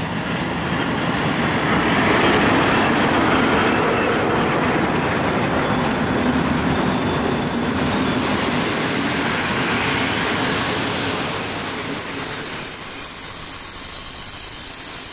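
A diesel-hauled passenger train passing close by: two locomotives with their diesel engines running, then the coaches rolling past. From about five seconds in, steady high-pitched squeals from the train's running gear sit over the rumble.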